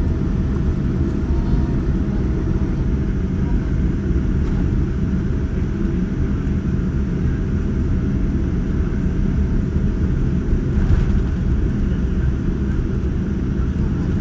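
Steady low rumble inside the passenger cabin of a Boeing 787-9 as it taxis before takeoff, with a faint steady hum.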